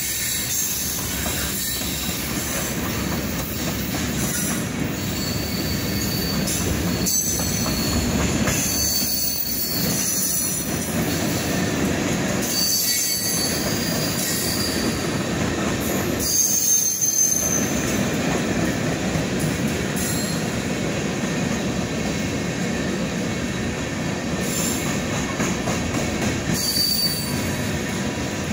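Norfolk Southern mixed freight train's cars rolling steadily past: continuous rumble and rattle of steel wheels on rail, with brief high-pitched wheel squeals every few seconds and occasional clicks over rail joints.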